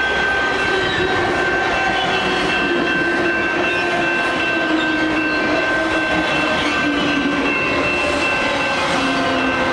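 West Coast Express commuter train rolling past at close range: a steady rumble of its many passenger cars, with a continuous high-pitched whine over it.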